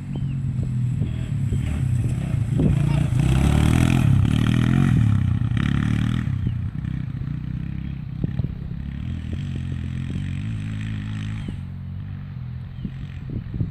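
Suzuki 250cc quad bike engine running, revving up and getting louder a few seconds in, then settling back to a steadier, quieter run. Scattered clicks and knocks are heard over it.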